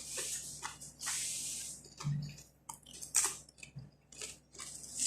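A person chewing crunchy kubus flatbread close to the microphone, in irregular bursts of crisp crunching with short gaps.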